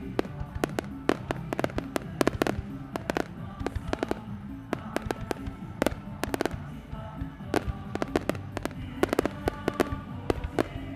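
Aerial fireworks going off in a rapid, irregular series of sharp bangs and crackles over a low rumble, with music playing underneath.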